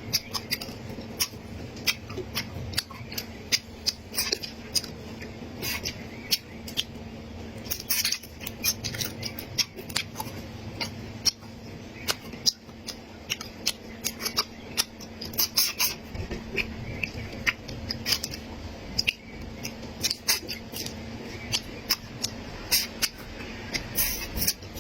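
Close-miked eating sounds: chewing and crunching food, with many sharp irregular clicks and crackles over a steady low hum.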